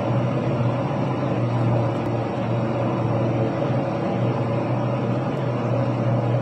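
Gold and silver soldering machine running: a steady low hum with an even hiss over it.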